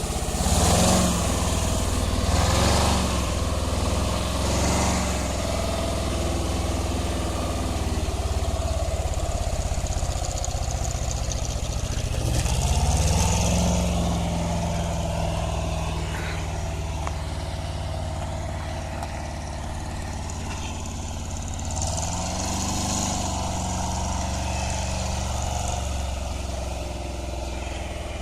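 GAZ-66 V8 engine of a homemade all-terrain vehicle running, revving up and easing off several times, with surges in the first few seconds and rising pitch about halfway through and again near the end.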